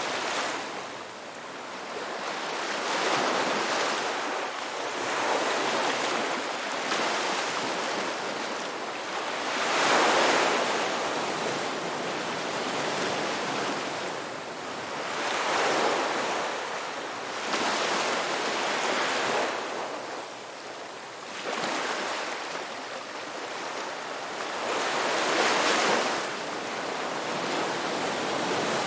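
Sea waves breaking and washing in, one surge of surf every few seconds, each rising and falling away.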